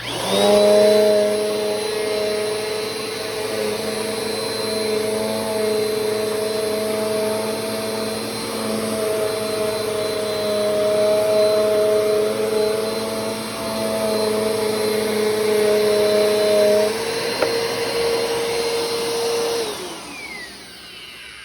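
Bissell PowerForce Compact 2112 upright vacuum switched on and running steadily with a motor whine as it picks up dryer lint, then switched off near the end, its whine falling as the motor spins down. The owner says this vacuum has a shot motor.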